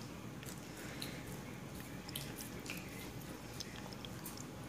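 A toddler chewing pieces of onion: faint wet chewing with short mouth clicks and smacks.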